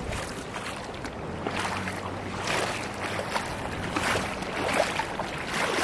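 Floodwater rushing and churning, a steady wash of noise with a low hum underneath.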